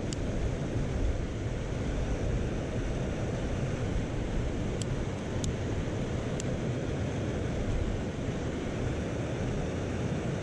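Steady rushing of a mountain stream, with three faint short high ticks about halfway through.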